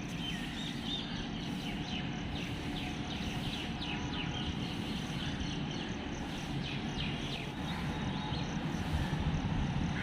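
Outdoor ambience: many short, high bird chirps over a steady low rumble.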